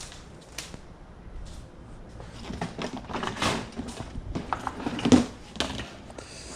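Clicks, knocks and rustling as a shop vac's plastic canister and lid are handled, busiest in the second half with one sharper knock near the end. The vacuum motor is not running.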